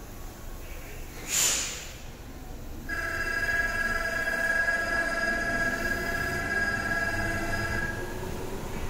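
Railway sounds aboard a Tobu 10030 series train: a short, sharp hiss of air about a second and a half in, then a steady electronic ringing of several tones for about five seconds.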